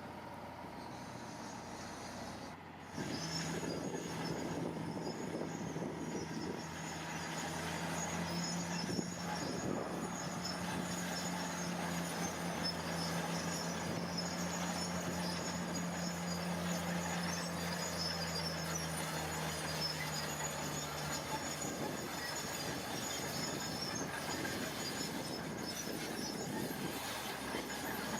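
Heavy earthmoving machine at work: its engine hums steadily from about three seconds in, dropping away after about twenty seconds, over a continuous mechanical rumble with high metallic squealing.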